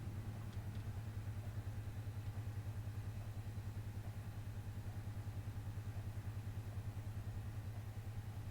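Old-school washing machine running: a steady low hum that throbs rapidly and evenly.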